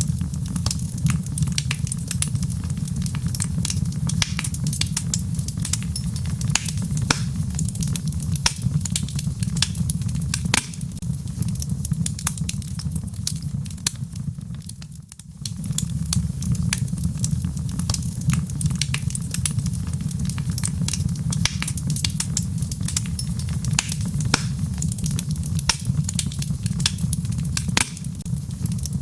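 Log fire burning in a fireplace: dense, irregular crackles and pops over a steady low rumble. The sound dips briefly about halfway through, then carries on.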